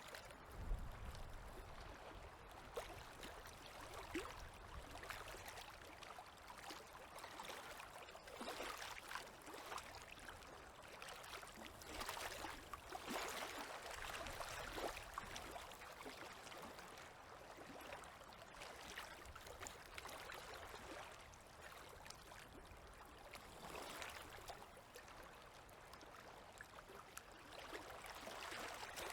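Small river waves lapping at the shore: a faint, soft wash of water that swells and eases every few seconds.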